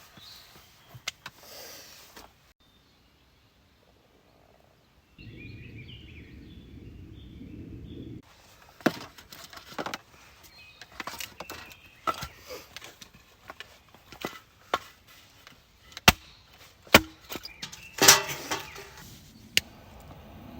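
Irregular sharp knocks and clatter from objects being handled, coming thick and fast in the second half. Near the start a short stretch of dead silence is followed by about three seconds of low rumbling noise.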